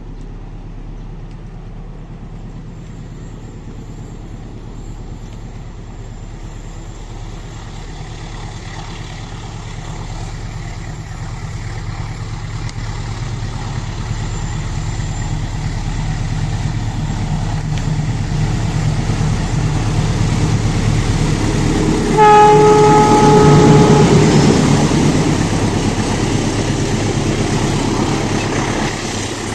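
A passenger train hauled by a diesel locomotive approaches, its rumble growing steadily louder. The locomotive's horn sounds once for about a second, about 22 seconds in, as the train draws level, and the rumble of the passing train carries on after it.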